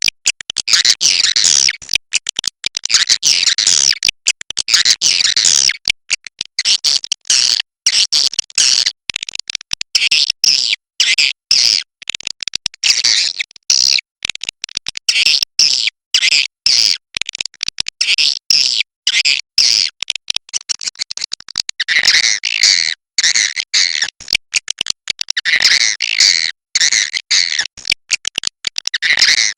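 Swiftlets calling: dense, high chattering twitters, broken by frequent brief gaps to silence.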